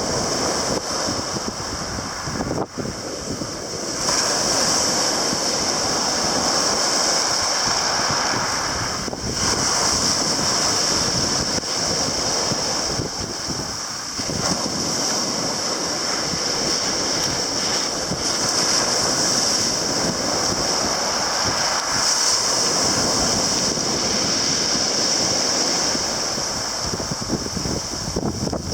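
Sea surf and waves washing, with wind buffeting the microphone; the sound changes abruptly several times.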